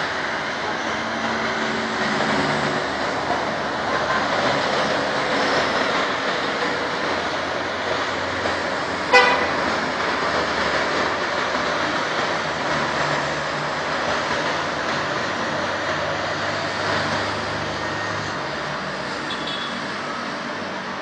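Steady rush of passing road traffic, with one short car horn toot about nine seconds in.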